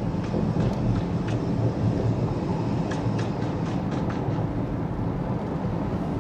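Steady rumble of a car driving, engine and tyre noise, with a few faint clicks.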